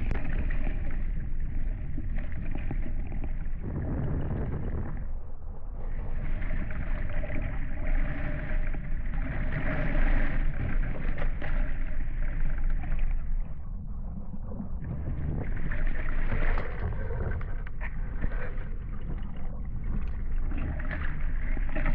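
Water rushing and splashing along the hulls of a Hobie 16 catamaran under sail, with wind noise. The sound swells and eases, dropping off briefly a few seconds in and again about two-thirds of the way through.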